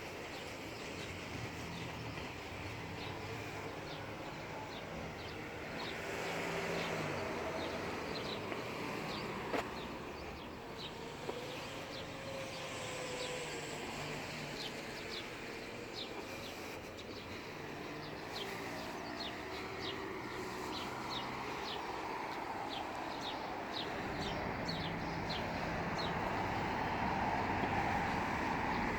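Small bird repeating a short, high chirp about once or twice a second, more often in the second half, over steady background noise with a low hum.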